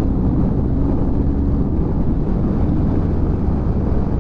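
Motorcycle engine running steadily at road speed, with wind rushing over the rider's microphone.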